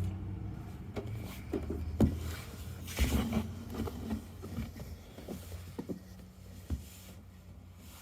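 Plastic parts of a toy Bruder Mack garbage truck being handled, with light knocks, clicks and scrapes, the sharpest about two and three seconds in. A steady low hum dies away over the first two seconds.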